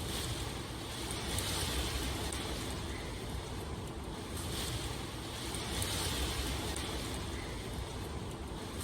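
Steady rain ambience: an even hiss that swells gently every second or two over a constant low rumble.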